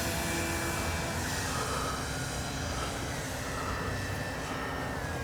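The electric motor and propeller of a Flex Mamba 10 G2 RC plane whining in flight under 6S power. The pitch holds fairly steady, dipping a little twice as the sound slowly fades, over a low rumble of wind on the microphone.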